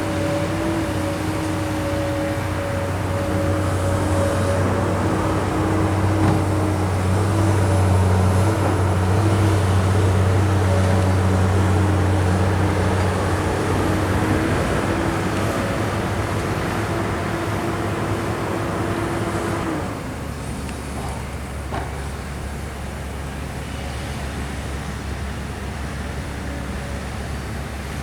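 Kobelco SK200 excavator running steadily under load, a low engine hum with a steady whining tone above it. About twenty seconds in the whine stops and the machine settles to a lower, quieter run.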